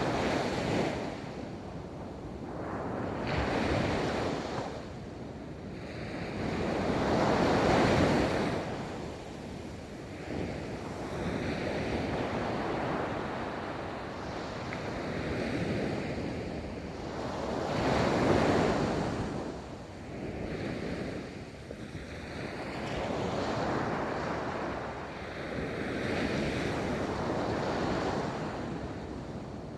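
Ocean waves rolling in and washing onto a beach, the surf rising and falling in swells every few seconds, the loudest about eight and eighteen seconds in.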